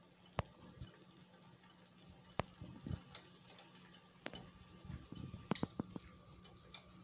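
Eggs and tomato salsa cooking in a pan: faint bubbling with scattered sharp pops and ticks, a handful of louder ones spread through, over a low steady hum.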